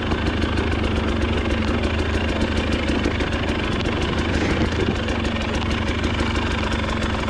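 Off-road dirt bike engine running at steady low revs, a fast even pulsing drone with no clear revving up or down.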